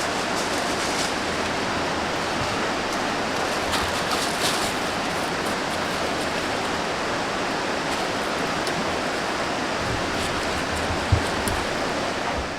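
Steady rush of creek water running over rocks and small falls, with a few faint clicks and low knocks.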